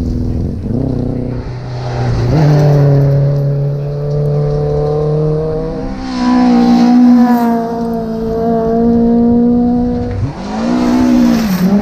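Rally car engine heard from inside the cabin, running loud under hard acceleration. Its pitch holds steady for stretches and shifts in steps a few times, with a brief dip and climb near the end, as at gear changes.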